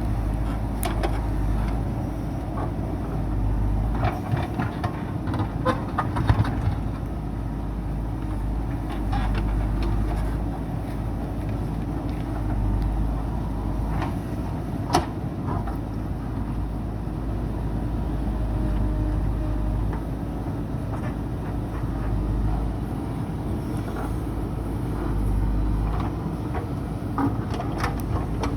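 JCB backhoe loader's diesel engine running steadily under load, with scattered sharp knocks and clanks as it digs.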